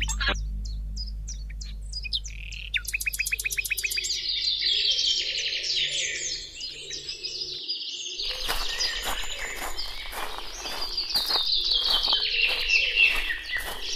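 Forest birdsong: several birds chirping and trilling at once, with a quick rattling trill about three seconds in. From about eight seconds in, a crackling rustle runs under the birdsong.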